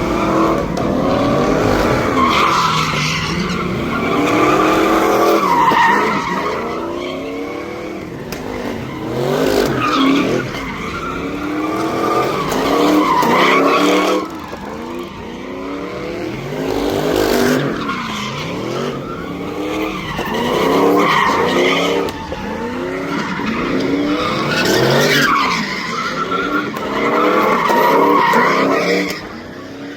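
Car engine revved hard again and again, its pitch rising and falling every few seconds, over tyres squealing as they spin in burnouts and donuts.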